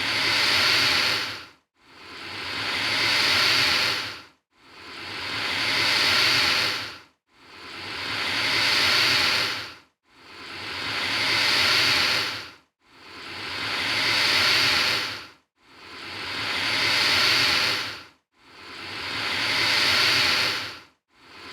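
Alligator hissing, repeated about every 2.7 seconds: each hiss swells over a couple of seconds and then cuts off abruptly, with a short silence before the next.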